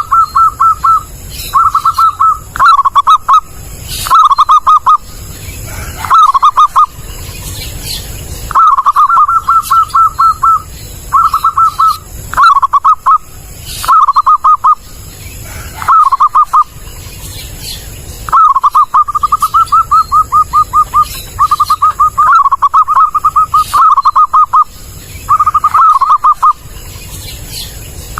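Zebra dove (perkutut) cooing loudly in repeated bursts of rapid pulsed notes, about a dozen phrases of up to two seconds each with short pauses between.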